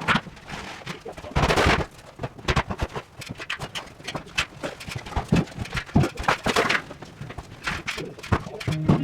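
Irregular knocks and clanks of demolition work taking apart a prefab cold room, with a short scraping burst about a second and a half in.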